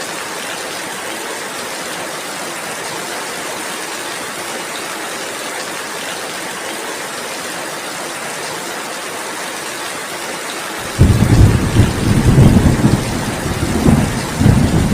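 Steady rain falling, an even hiss. About eleven seconds in, a loud, deep rumble sets in suddenly and goes on, swelling and easing, over the rain.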